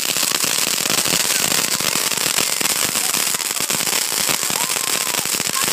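Firecrackers going off in a rapid, unbroken crackle of many small pops a second.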